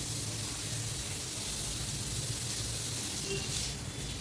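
Tap water running steadily and splashing over long wet hair as conditioner is rinsed out.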